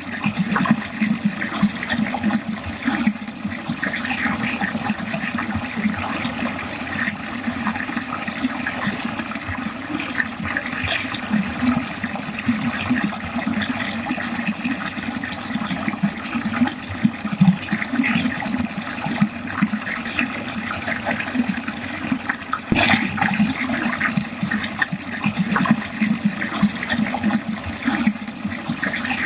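Water pouring steadily down a drain, with continuous splashing and gurgling.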